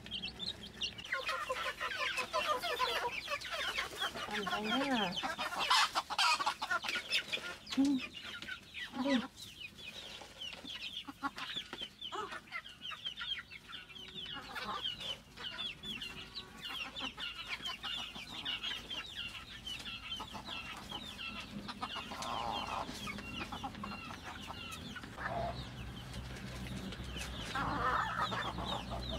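Chickens clucking, with constant high-pitched peeping and a few low clucks between.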